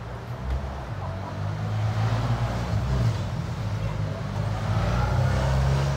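Car engine running at low revs, its hum growing louder over the first couple of seconds.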